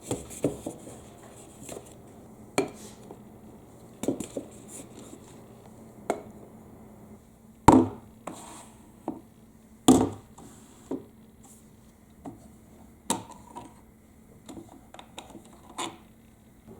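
Balls of a HABA marble run clicking and knocking as they roll along the track, in irregular hard taps, with two louder knocks about eight and ten seconds in. A faint steady low hum runs underneath.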